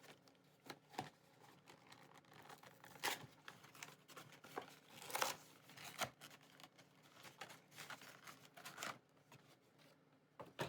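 Foil trading-card pack wrappers being torn open and crinkled by hand: quiet, irregular crackling and rustling, with louder rips about 3 and 5 seconds in.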